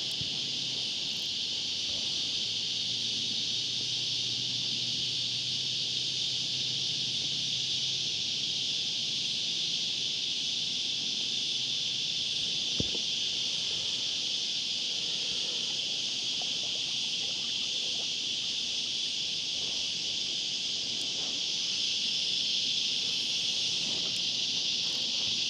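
Chorus of cicadas: a steady, high-pitched drone, with one sharp click about thirteen seconds in.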